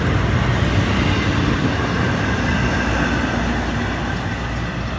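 Freight cars rolling past on the rails: a steady rumble of wheels on track from the last intermodal container cars of a freight train, getting slightly quieter near the end as the tail of the train moves away.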